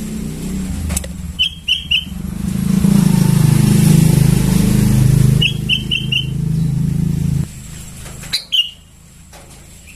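Sooty-headed bulbul chicks calling in short chirps, a quick run of three and then one of four, with a last call near the end. Under them a motor vehicle's engine drone swells, is loudest midway and cuts off about three-quarters of the way through.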